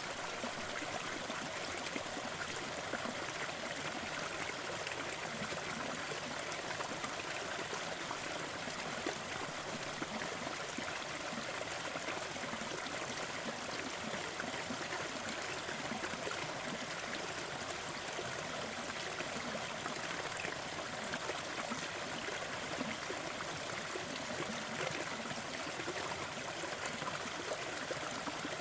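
Waterfall and stream water running in a steady, even rush, with no change over the whole stretch.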